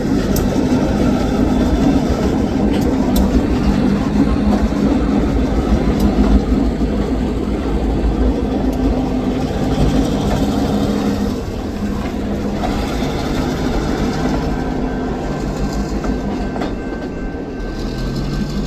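Diesel locomotive engine running with a steady low hum as railcars roll past, wheels clicking over the rail joints. The engine noise drops off about two-thirds of the way through.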